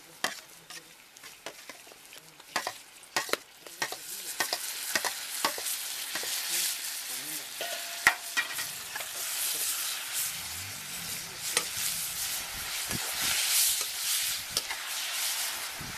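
Chopped onions, green chillies and tomatoes sizzling in oil in a steel kadai, stirred with a slotted steel spoon that clicks and scrapes against the pan. Sharp clicks come first; about four seconds in, the sizzle grows loud and steady.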